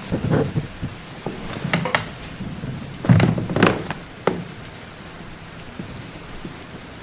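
Steady rain with thunder: cracks and a low rumble at the start, and the loudest crack and roll about three seconds in, after which the rain goes on alone.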